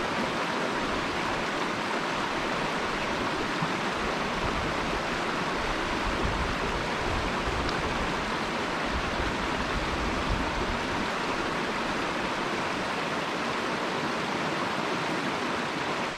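Mountain brook water rushing steadily, a continuous even roar of flowing water.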